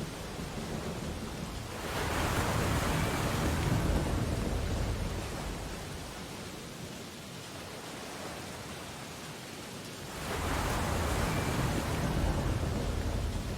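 Ocean waves breaking on a beach: two waves crash, one about two seconds in and one about ten seconds in, each swelling and then washing back over a few seconds, with a steady hiss of surf between them.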